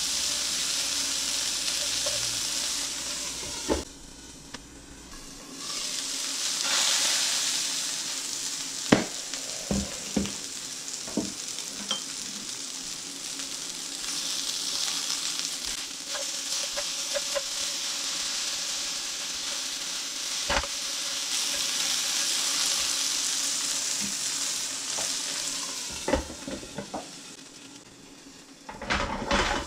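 Pork meatballs sizzling as they fry in olive oil in a skillet. A few sharp clicks come from metal tongs against the pan as the meatballs are turned. The sizzle dips briefly a few seconds in and fades near the end.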